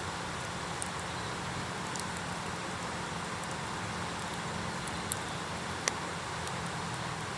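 Wood fire in an iron fire pit crackling, giving a few sharp pops, the loudest about five and six seconds in, over a steady low background rumble.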